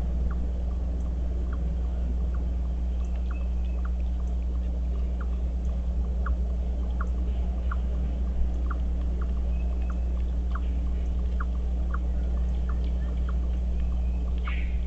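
Steady low electrical hum, with a bird's short call note repeated about one and a half times a second.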